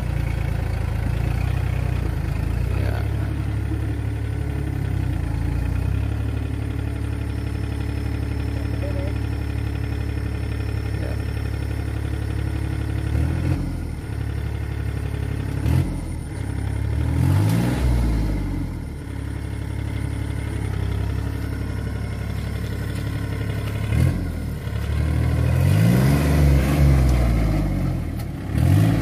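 Kubota four-wheel tractor's diesel engine running steadily, revving up and dropping back twice, around the middle and again near the end.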